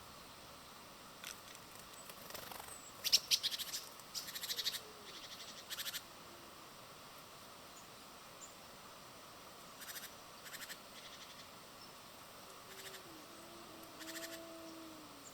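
Birds at a garden feeder: several short bursts of rapid ticking, the loudest about three seconds in, with a few faint low gliding notes near the end over a steady hiss.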